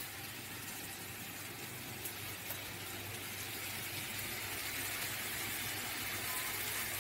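Vegetable filling of potato, carrot and peas sizzling steadily in a frying pan over a gas burner, slowly growing louder, with a faint low hum underneath.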